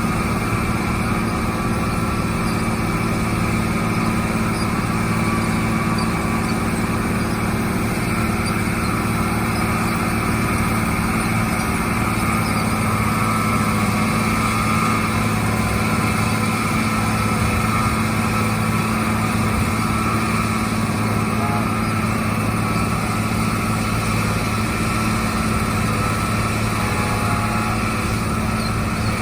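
Heavy construction machinery's diesel engine running steadily at a constant pitch.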